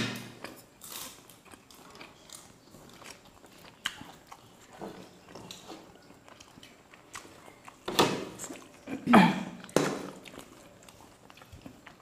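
Close-miked eating with the hands: soft chewing and wet mouth clicks, with a few louder smacking bursts about eight to ten seconds in.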